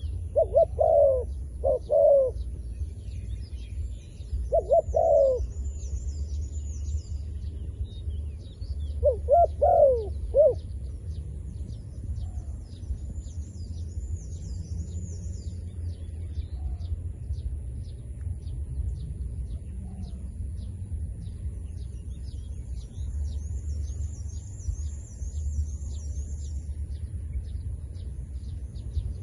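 A dove cooing in short groups of a few rising and falling notes, three times in the first ten seconds, then falling silent. High-pitched chirping of small birds continues throughout over a steady low rumble.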